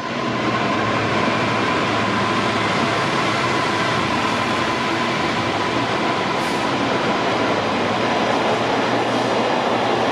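Intermodal freight train's container wagons running through at speed: a loud, steady rush of wheels on rail, with a thin ringing tone that fades over the first several seconds.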